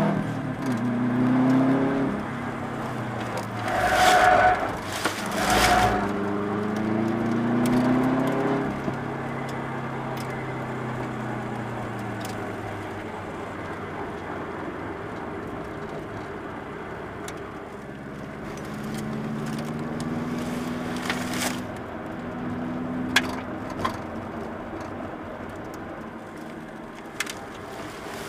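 Subaru Impreza WRX's turbocharged flat-four heard from inside the cabin, revving up through the gears and easing off several times as the car laps a circuit. Two short, loud bursts break in about four and five and a half seconds in. The middle stretch is quieter and steady, and a few sharp clicks come near the end.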